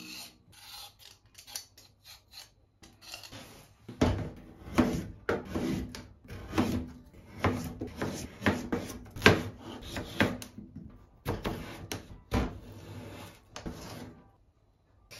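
Kitchen food-preparation sounds: a few light handling noises, then from about four seconds in a run of irregular knocks and rubbing strokes on a wooden surface, a few a second. They stop shortly before the end.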